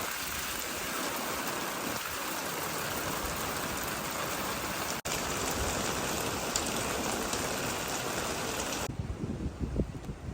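Steady, even rush of water, like heavy rain or water pouring. About nine seconds in it cuts off abruptly, giving way to a quieter, uneven low rumbling.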